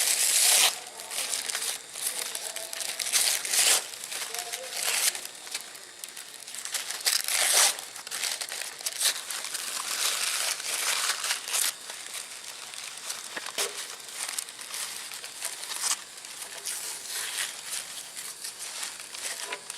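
Paper crinkling and tearing in irregular rustling bursts.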